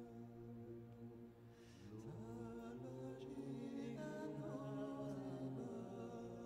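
Meditative background music of sustained, chant-like vocal tones. The held notes move to new pitches about two seconds in and again about four seconds in.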